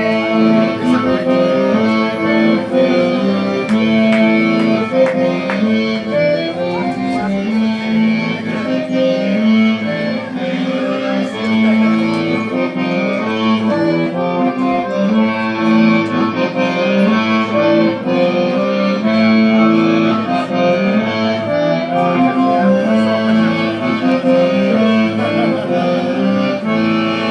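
Live band playing an instrumental passage of sustained, held chords.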